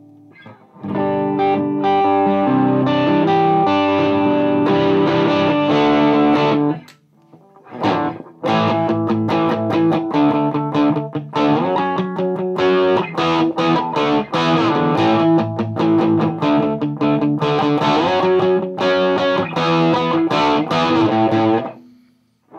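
Gibson Les Paul played through a Mesa Boogie Dual Rectifier on channel 1 in pushed mode, into a Marshall 1960A 4x12 cabinet: overdriven chords and single notes, with a short break about seven seconds in.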